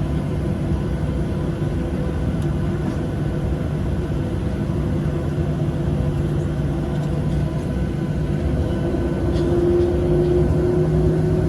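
Steady drone of a Boeing 737-700's CFM56 jet engines and air system, heard inside the cabin. About ten seconds in, an engine tone rises slightly and the sound grows a little louder.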